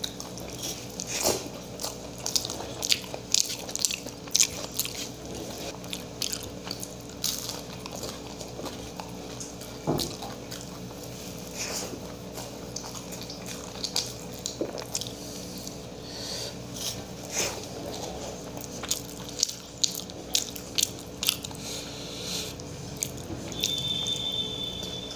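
Close-up eating sounds: a man chewing mouthfuls of rice with green tomato bhorta, many short mouth clicks and smacks, over a faint steady hum.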